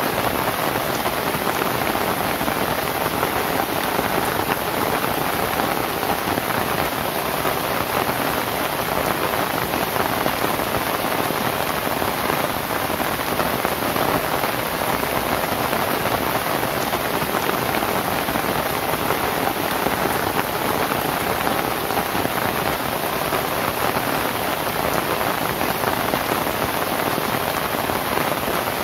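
Steady rain falling on a roof of lontar palm leaves, an even, unbroken rush of drops with no change in strength.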